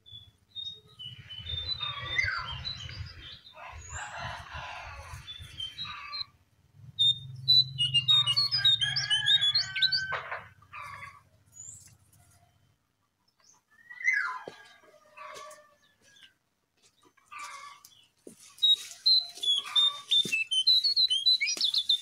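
Small birds calling: bursts of quick chirps and short whistled notes, broken by pauses. A low hum runs under the first half and stops about halfway through.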